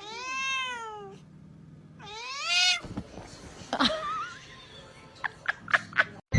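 A cat meowing twice: a long meow that rises and falls, then a shorter rising one about two seconds in. A few short clicks or taps follow near the end.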